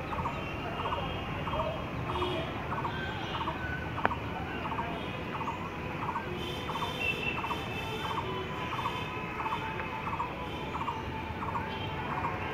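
A bird calling one short note over and over, evenly, a little under two calls a second, with fainter higher chirps from other birds. Underneath runs a steady low background rumble, and there is one sharp click about four seconds in.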